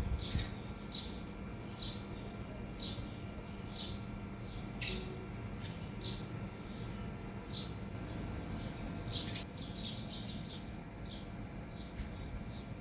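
A small bird chirping repeatedly: short, high, downward-sliding chirps about once a second, with a quicker run of them about three-quarters of the way through, over a steady low background rumble.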